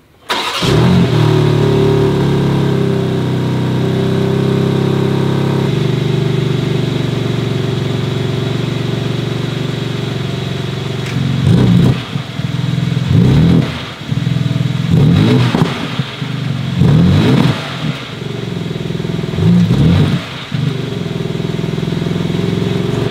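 BMW M4 Competition's 3.0-litre twin-turbo straight-six starting with a flare about half a second in and settling into a steady high idle, which drops a little around six seconds in. From about eleven seconds it is revved five times in short blips, each rising and falling back to idle.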